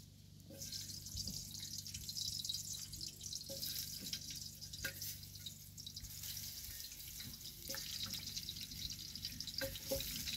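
Chopped onion frying in a sufuria: a steady sizzling hiss starts about half a second in, with scattered small clicks as more pieces are cut and dropped in.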